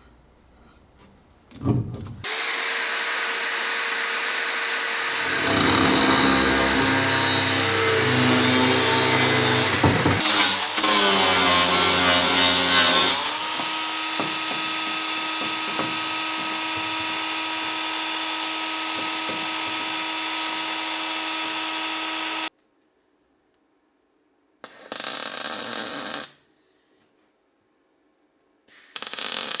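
Handheld electric power tool working on car-body sheet metal. Its steady whine drops in pitch and turns rougher and louder as it bites in, from about five to thirteen seconds in. It then runs steadily until it stops abruptly, followed by two short bursts near the end.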